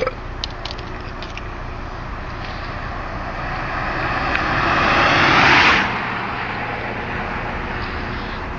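Vauxhall Vectra 2.5 V6 engine running, revved up over a few seconds with the pitch rising to a loud peak about five and a half seconds in, then dropping back suddenly to a steady run. The engine is failing and making noises.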